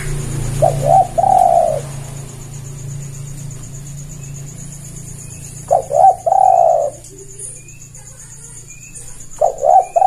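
Spotted dove (tekukur) cooing: three calls about four seconds apart, each two short notes followed by a longer, drawn-out coo, with faint high chirps in the background.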